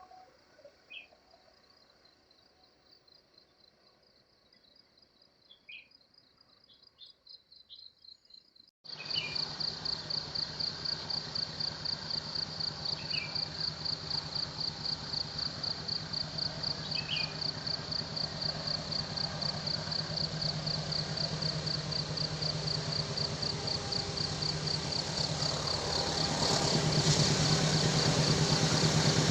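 Insects keep up a steady pulsing trill, with a few short chirps. About nine seconds in, the sound cuts abruptly louder: the same trill over a steady engine hum and road noise, which grow louder near the end as a heavy vehicle approaches.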